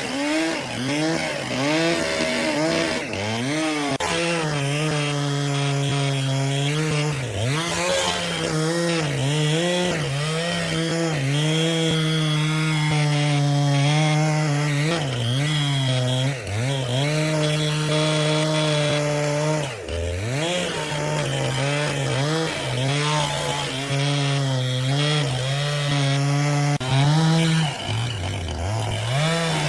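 Petrol-engine saw cutting into an oak log, the engine running steadily and dipping in pitch again and again as it bogs under load in the cut, then recovering.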